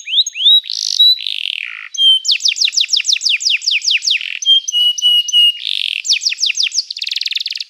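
Domestic canary singing: quick series of repeated falling whistled notes, a few held tones and buzzy rattling trills, one phrase running into the next, with the song stopping right at the end.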